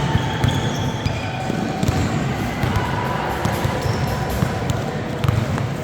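Basketball being dribbled on a gym court during a youth game, repeated low bounces over steady crowd chatter echoing in the hall.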